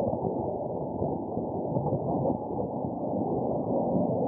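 Muffled hiss and static from a medium-wave AM radio receiver on 1476 kHz, with no speech left in it: the emergency broadcast's signal has dropped out.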